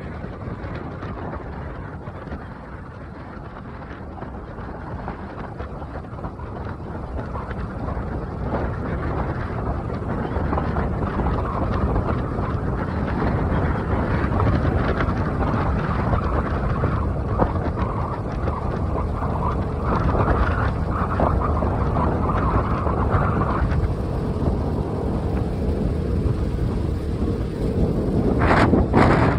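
Wind buffeting the microphone while riding a bike, with road and vehicle rumble underneath, rising in loudness over the first several seconds as the ride picks up speed.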